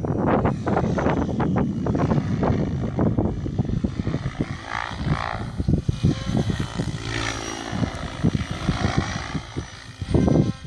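Electric Mikado Logo 600 radio-controlled helicopter in flight, its main and tail rotor blades whooshing and whining. The pitch sweeps up and down as it passes by, about halfway through.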